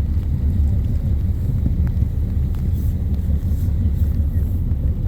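Steady low rumble of a whale-watching boat under way, with wind buffeting the microphone.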